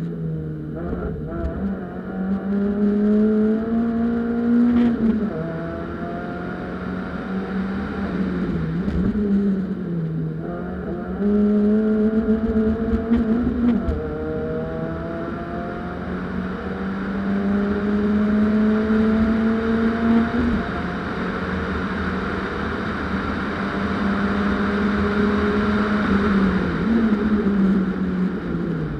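Peugeot 206 1.6-litre four-cylinder engine driven hard on a stage run. Its revs climb steadily and then drop back about five times as it accelerates, shifts and slows for the course.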